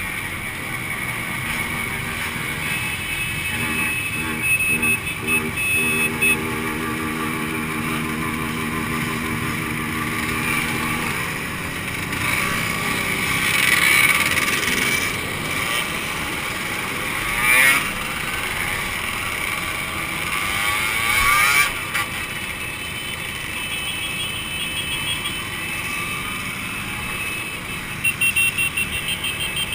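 Two-stroke motorcycle engines running and revving, with several louder swells of revving in the middle.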